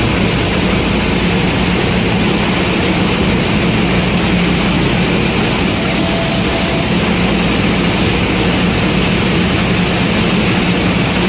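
Combine harvester running steadily under load while harvesting corn: the engine's even hum with the rushing noise of the threshing machinery.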